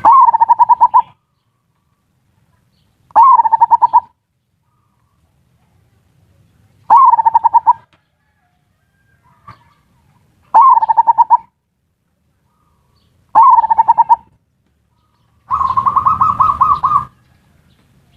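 Zebra dove (perkutut) song in the ngerot and kuwor styles used as lure song: five short rattling coos, each rising sharply at the start, spaced three to four seconds apart, then a longer, slightly higher rolling call near the end.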